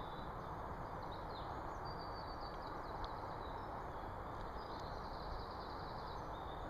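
Small birds chirping now and then in woodland over a steady background noise.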